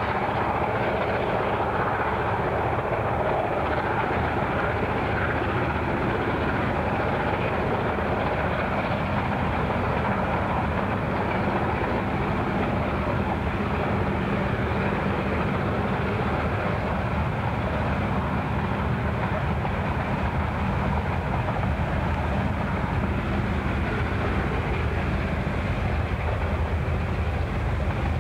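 Diesel locomotives hauling a goods train: a steady engine drone together with the rumble of the train on the track.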